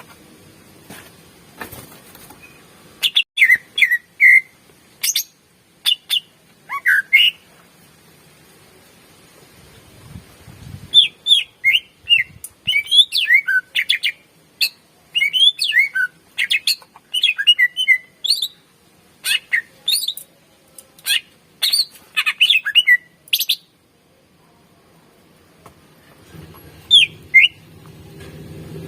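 Green leafbird (cucak ijo) singing in loud bursts of quick chirps and whistled notes. A dense, unbroken run of song starts about a third of the way in and stops suddenly, and after a short pause a few more notes come near the end.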